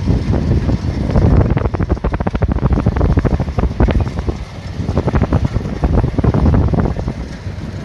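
Combine harvester running under load, with a dense rapid clatter over a low engine rumble that eases briefly about halfway through, and wind buffeting the microphone.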